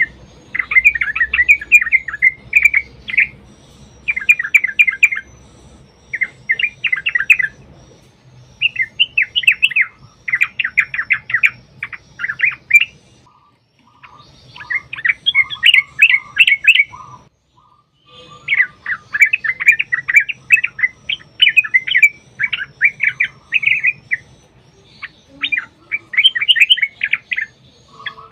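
Yellow-vented bulbul (trucuk) singing in fast, bubbling chattering phrases of a second or two each, separated by short pauses, with a few lower notes partway through.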